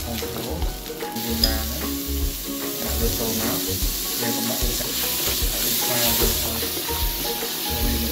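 Garlic, dried chilli and yellow Khmer spice paste sizzling in hot oil in a stainless steel wok while a plastic spatula stirs and scrapes it; the sizzle grows louder about a second in, with a sharp click just after. Background music with a tune plays along.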